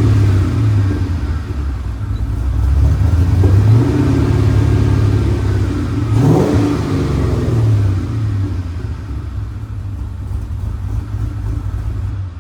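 LS 5.3 V8 with a Sloppy Mechanics stage 2 cam, running through a full 2.5-inch exhaust with an X-pipe and Flowmaster FlowFX mufflers, revving up and down, with a slow climb a couple of seconds in and a sharp rev blip about six seconds in.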